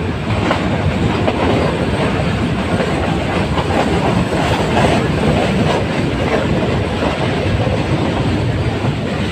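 Metre-gauge Nilgiri Mountain Railway train running steadily, a continuous rumble with faint clicks of the wheels over the rail joints.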